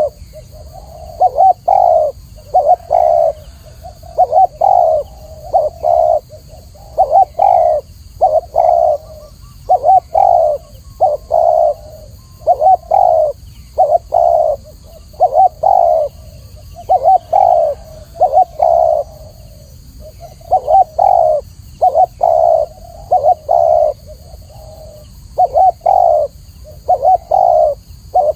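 Spotted dove cooing over and over: groups of short low coos repeated every second or two, each phrase much the same.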